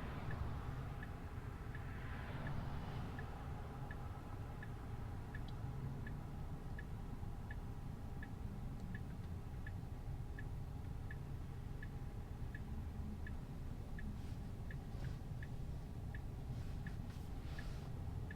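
Tesla turn-signal indicator ticking steadily in the cabin, about one and a half ticks a second, over a low hum from the car.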